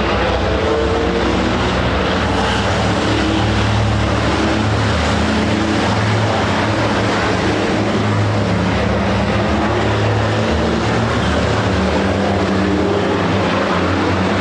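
Race trucks' big diesel engines running hard: a continuous low drone whose pitch shifts up and down in steps.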